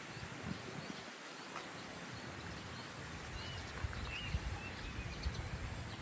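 Footsteps of someone walking, the thuds growing more frequent in the second half, over steady outdoor ambience. A few short bird chirps come about three to four seconds in.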